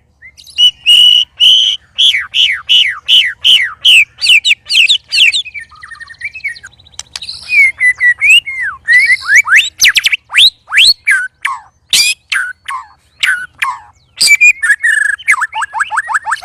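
White-rumped shama (murai batu) song: loud, sharp whistled notes, most of them sweeping downward in quick succession, with a scratchier, buzzy passage in the middle and a rapid trill of about ten notes a second near the end.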